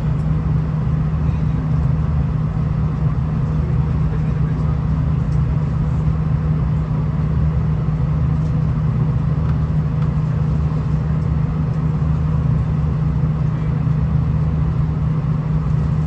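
Steady low drone of a V/Line VLocity diesel railcar heard from inside the passenger cabin, with an even hum that does not change.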